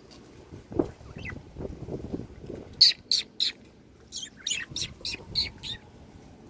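Pet parakeets chirping: three short, sharp calls about three seconds in, then a quick run of about seven chirps. Wind buffets the microphone during the first few seconds.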